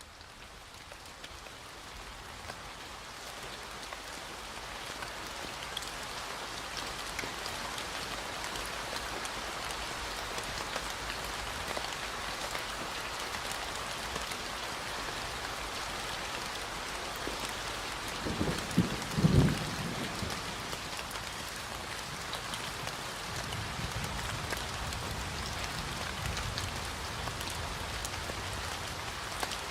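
Steady rain, building up over the first several seconds and then holding even. About two-thirds of the way through there is a short, loud thunderclap, followed a few seconds later by low rumbling.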